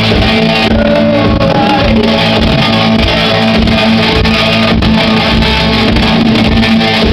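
Live rock band playing loud and continuously at a concert, with guitar, drums and bass held in a dense, steady wall of sound.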